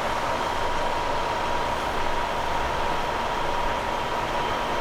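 A machine running steadily, a constant hum with a steady high whine.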